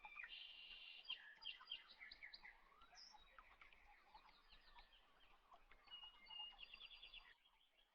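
Faint birdsong: several birds chirping and trilling with many short, quick calls, which stop near the end.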